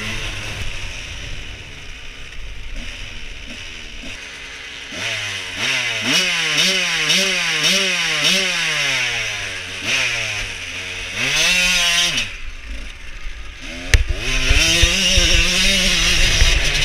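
1989 Yamaha YZ125 single-cylinder two-stroke engine being revved in quick repeated throttle blips, its pitch rising and falling several times. About fourteen seconds in, it pulls away under hard acceleration at high revs.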